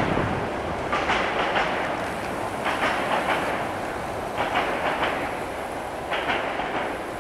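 Passing train's wheels clattering over rail joints in groups of clicks about every second and a half over a steady rumble, slowly fading as the train moves away.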